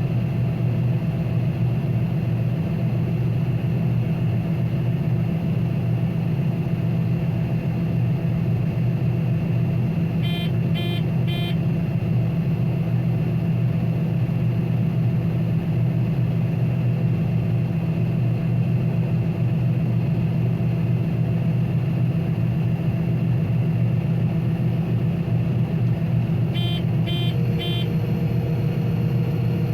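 Combine harvester running steadily while cutting wheat: a constant low drone. Twice, about ten seconds in and again near the end, three quick electronic beeps sound.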